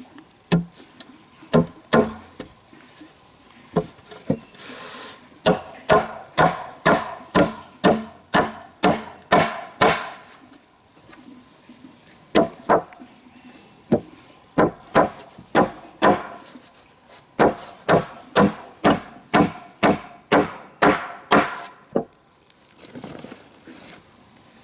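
A hand tool striking wood again and again, in runs of sharp blows about two a second, broken by short pauses.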